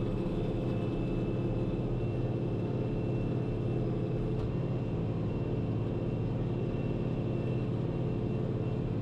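International 1586 tractor's six-cylinder turbo diesel running at a steady pitch while pulling a corn planter across the field, with a faint steady high whine over the engine note.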